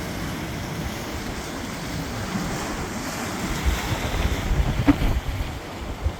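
Storm surf washing in, with wind buffeting the microphone; the sound of the water swells louder past the middle. A brief click about five seconds in.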